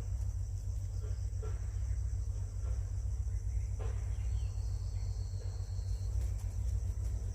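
Steady, high-pitched insect chorus of crickets over a constant low rumble. A thin high note is held for about a second and a half just past the middle.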